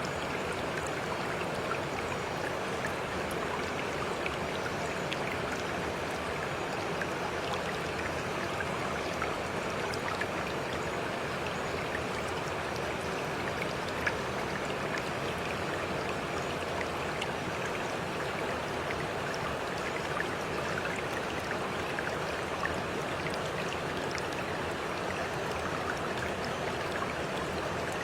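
Water flowing steadily in a small stream, with faint small splashes and drips scattered through it.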